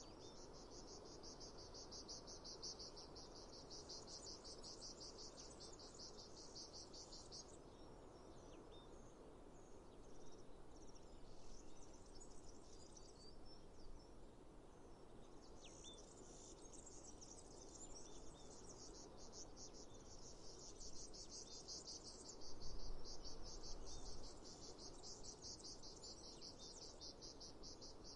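Crickets chirping in a fast, steady, high-pitched trill that stops for several seconds in the middle, with only a few scattered short chirps in the gap, then resumes. Under it runs a faint low hiss, with a brief louder low rumble about two-thirds of the way through.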